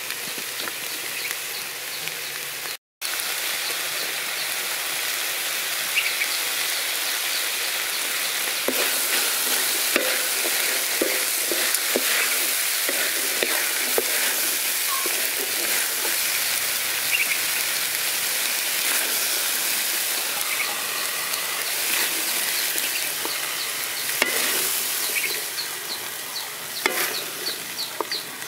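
Corn kernels sizzling in a hot aluminium pan while a wooden spatula stirs and scrapes them, with scattered knocks of the spatula on the metal. Near the end the sizzling fades and a rapid, even ticking of insects comes through.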